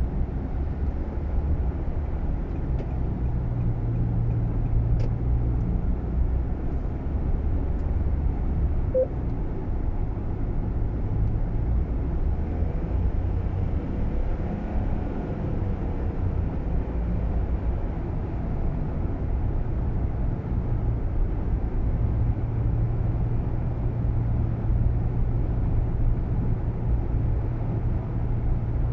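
Steady low road and engine rumble heard inside the cabin of a Nissan Roox kei car while driving. A few faint light clicks come in the first several seconds, the kind of interior rattle (a clattering 'kacha-kacha') that the owner is tracking down.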